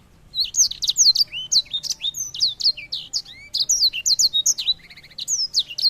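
Songbird singing a fast, unbroken song of sharp down-slurred whistled notes, with a short buzzy trill near the end.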